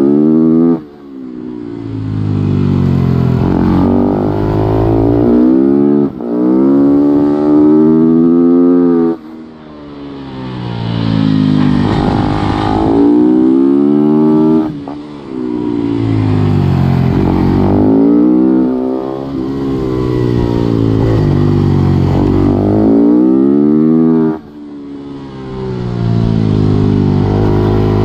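Supermoto racing motorcycle engine heard on board, revving hard through the gears with its pitch climbing in long rises, then cutting off sharply as the throttle is shut, about five times.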